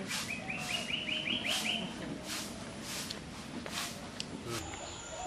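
A bird sings a quick run of about eight short chirps, each a little higher than the last, in the first two seconds. Behind it, short hissing sounds repeat roughly every second or less.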